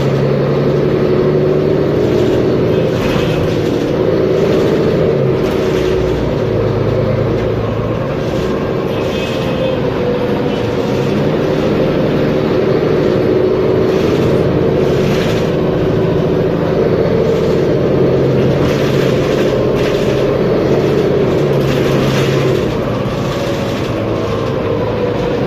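Mercedes-Benz Conecto G articulated bus's OM457LA inline-six diesel engine running under way, its note stepping up and down several times as the bus changes speed, with occasional short rattles.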